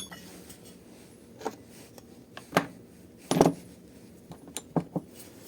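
A handful of light, separate metallic clicks and clinks of small engine parts being handled and set down, one a little longer about halfway through and three in quick succession near the end.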